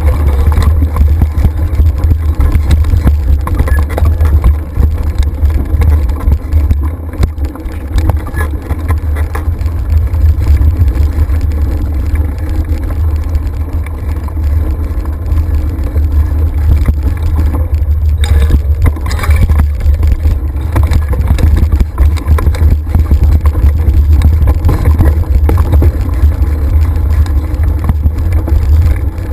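Loud, steady wind rumble buffeting the microphone of a camera carried on a moving mountain bike, with a few short knocks from the ride.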